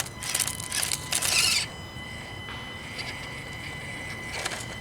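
Axial SCX24 micro RC crawler climbing a boulder: a few short scraping bursts of its tyres and chassis on rock in the first second and a half, then the steady high whine of its small electric motor, growing stronger about halfway through as it strains up the rock.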